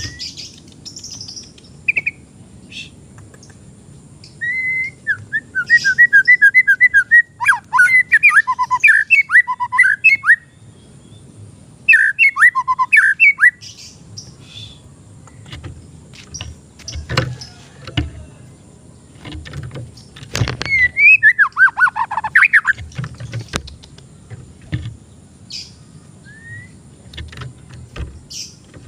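Young, untrained white-rumped shama (murai batu) singing in loud bursts of rapid repeated chirps and sweeping whistles. There are three main phrases, near the start, in the middle and after about twenty seconds, with a few sharp knocks between them.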